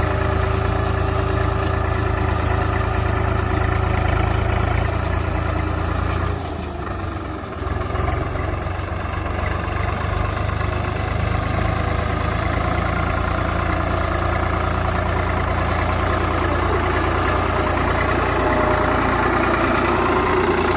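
Swaraj 744 FE tractor's three-cylinder diesel engine running steadily, dipping in level for about a second a third of the way in, then rising in pitch near the end.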